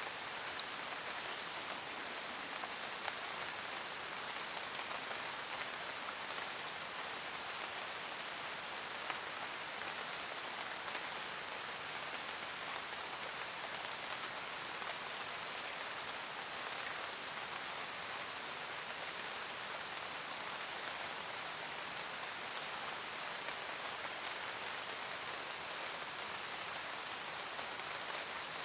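Steady rain falling in a forest, an even hiss of rain on leaves with scattered individual drops ticking through it.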